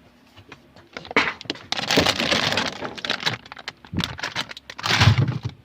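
Rustling and crinkling of packaged groceries being handled and moved about, with many small clicks, starting about a second in and pausing briefly near four seconds.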